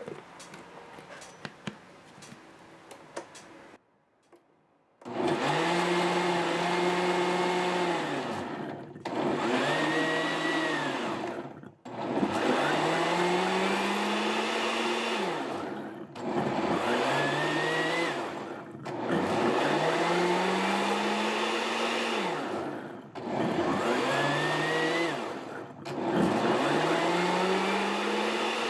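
Countertop blender pulsed on and off about seven times, each run lasting a few seconds. The motor's pitch rises as it spins up and drops as it stops, while it purées onion, cilantro and garlic into a green sauce. Before the first run, about five seconds in, there are a few small clicks.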